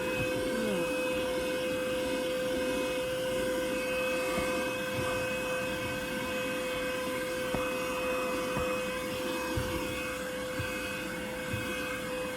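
Vacuum cleaner running steadily with a constant whine, a few faint knocks in the second half.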